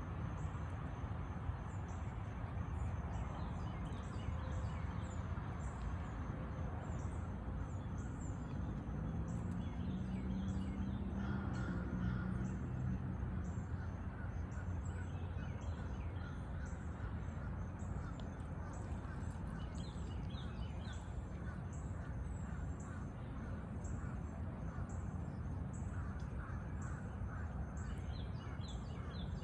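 Outdoor wildlife ambience: birds calling, with many short high chirps repeating throughout over a steady low rumble. A low droning tone comes in for a few seconds about a third of the way through.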